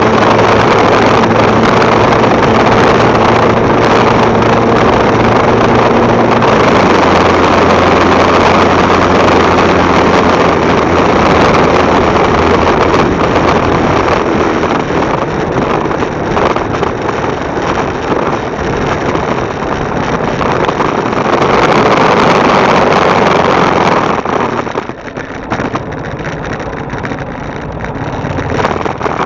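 Motorcycle engine running while riding, with heavy wind rush on the bike-mounted microphone. The engine note drops in pitch about seven seconds in, and the noise eases near the end.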